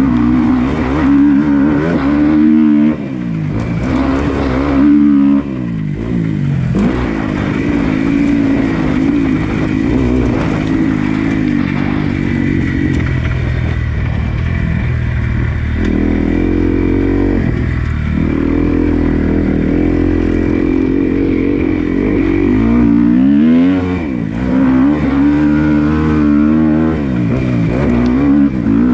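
Dirt bike engine running hard around a track. Its pitch climbs and drops again and again as the throttle is opened and closed and the gears are shifted, with quick rev changes near the start and again near the end.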